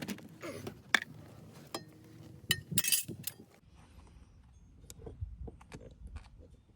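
Small hard parts and hand tools clinking and clicking as they are handled. The sharpest clinks come about a second in and in a cluster near three seconds, then fainter, scattered clicks follow.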